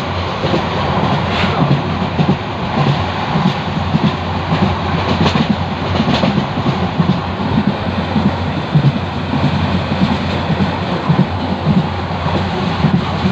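Passenger train running along the line, heard from inside the coach: a steady rumble and rush of noise with the wheels' uneven clatter on the rails.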